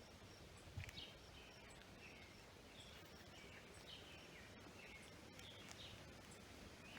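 Faint birdsong: a bird repeating short, falling chirps about once or twice a second over a quiet outdoor background hiss.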